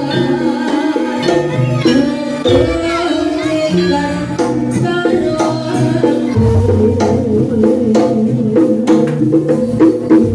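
Javanese gamelan music accompanying a jaranan dance: hand drums and metallophones playing under a wavering high melody line, with the drumming growing denser and sharper about six seconds in.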